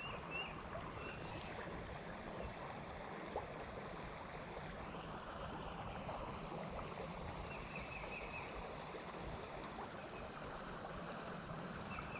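River water running steadily over a shallow rapid into a pool, an even rushing wash, with a few short faint high chirps now and then.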